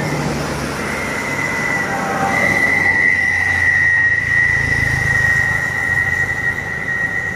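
Heavy truck on the highway, its diesel engine rumbling low while a steady high-pitched squeal rings over it, growing louder about two seconds in and holding.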